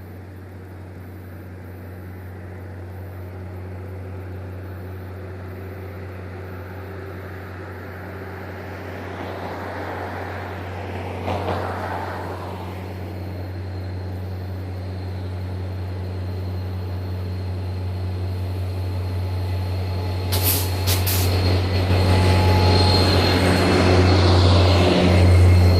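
Train approaching and growing steadily louder, its locomotive engine a steady low drone. A few sharp clicks come about twenty seconds in, and a thin high wheel squeal joins near the end.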